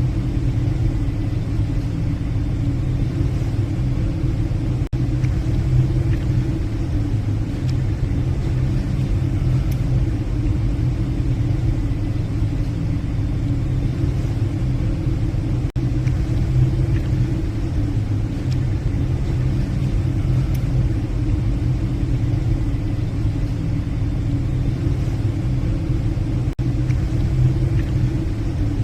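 Passenger ship's engines running with a steady low drone, heard from the ship.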